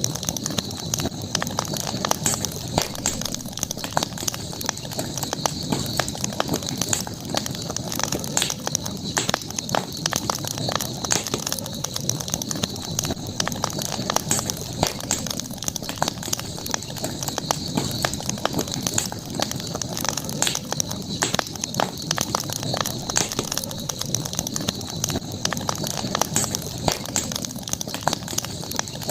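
Campfire crackling steadily with many small pops and snaps, over a constant high-pitched background drone.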